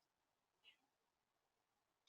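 Near silence, with one brief, high chirp from a bird at a feeder about two-thirds of a second in.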